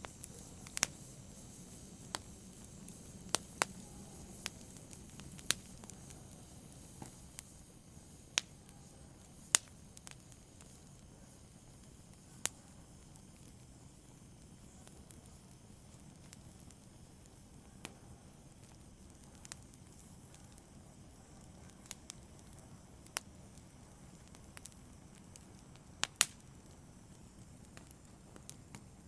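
Wood fire in a fireplace crackling, with sharp irregular pops and snaps over a low, steady hiss of burning, thinning out partway through.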